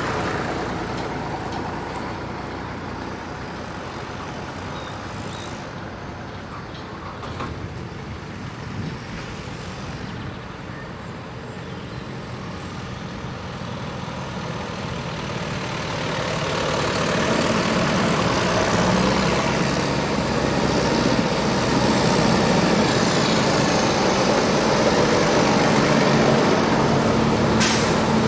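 Tractor engines going by: the sound of one tractor fades away over the first few seconds, and from about the middle another draws near and runs loud and steady. A short sharp click near the end.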